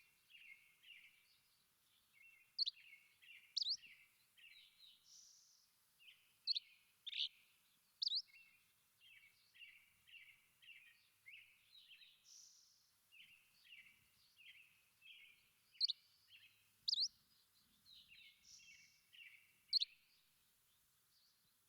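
Songbirds chirping in a steady run of short twittering notes, broken every few seconds by louder, sharp whistled notes that sweep quickly in pitch.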